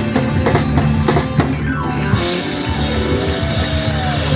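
Live rock band playing an instrumental passage without vocals: drum kit and electric guitar, with a falling glide about halfway through and held tones after it.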